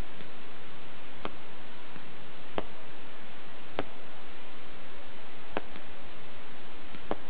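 Aerial fireworks bursting: about five sharp cracks, one to two seconds apart, over a steady hiss.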